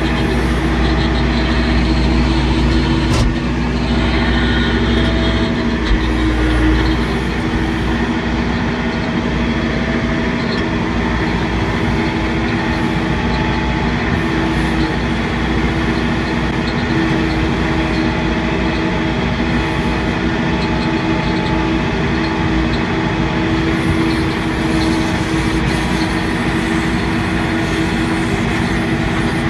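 Tractor engine running steadily, its low rumble heavier for the first several seconds, with one sharp click about three seconds in.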